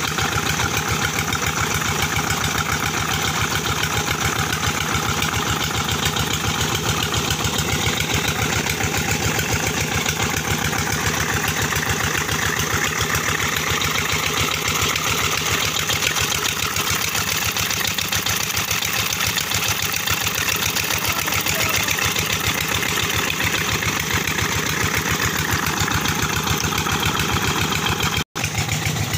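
25 horsepower Petter diesel engine of a chakki flour mill running steadily with an even, fast beat. The sound drops out for an instant near the end.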